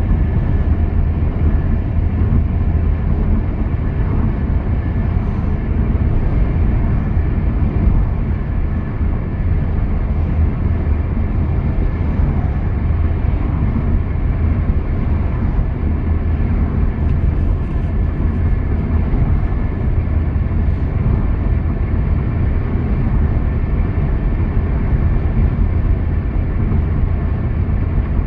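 Steady low rumble of a car driving at highway speed: tyre and engine noise.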